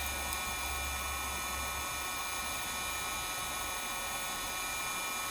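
Steady hiss with several faint, steady high-pitched whines and no distinct knocks or clicks. A low hum underneath fades about two seconds in.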